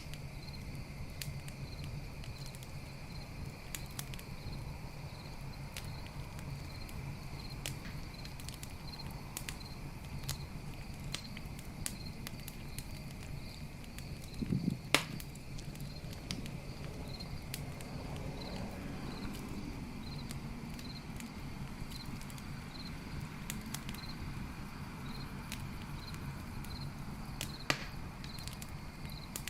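Campfire crackling with sharp wood pops, the loudest about halfway through and another near the end, over crickets chirping steadily in a regular pulse.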